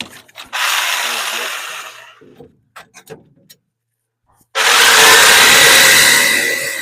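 Electric power saw run in a short burst, then started again about four and a half seconds in and cutting into the dryer's shaft, a loud rasp with a motor whine that climbs a little and then holds steady.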